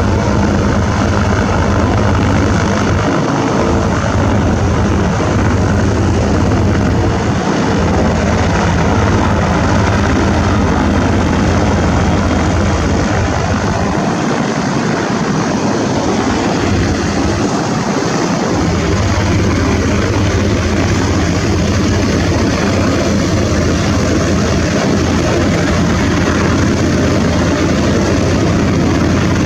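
Aircraft engine running loudly and steadily, a continuous rush with a strong low drone that dips briefly a few times.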